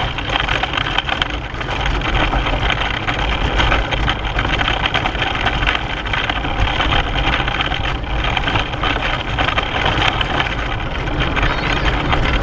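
Steady rumble and rattle of a pedal car's wheels and body running over the road at speed, heard from a camera mounted on the car.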